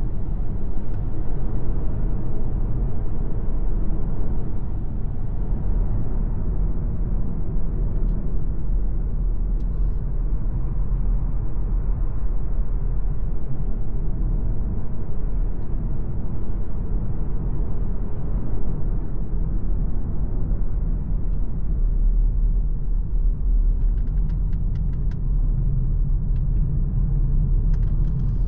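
MG ZS Hybrid+ on the move, a steady low rumble of road and drivetrain noise with no rise or fall in pitch. A few light ticks come near the end.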